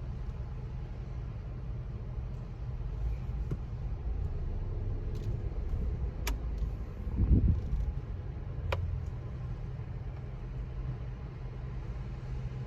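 Steady low rumble of a car at a car wash, with two sharp clicks about six and nine seconds in and a brief louder low thump between them.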